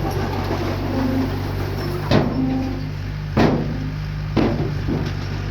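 Diesel engine of an earthmoving machine running steadily, with three sharp metallic bangs about two, three and a half and four and a half seconds in.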